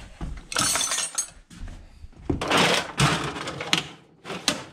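Metal hand tools clinking and clattering as they are put into a tool bag, in several bursts of handling.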